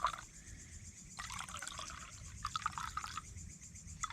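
A drink being poured from a bottle into a glass, an uneven trickling pour lasting about two seconds.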